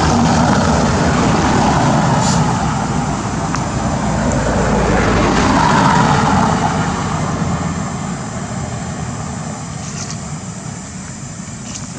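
A motor vehicle passing, its engine and tyre noise swelling twice and then fading away.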